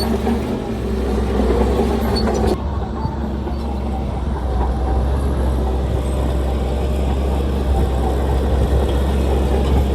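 Heavy earthmoving machinery's diesel engine running steadily with a deep low hum. The higher sound changes abruptly about two and a half seconds in.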